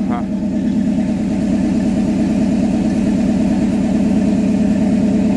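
1955 Chevy pickup truck's engine idling steadily, with an even pulse of firing strokes, a little louder after about two seconds.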